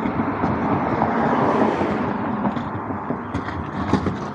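A car passing close by, its tyre and engine noise swelling and then fading. A few light clicks come near the end.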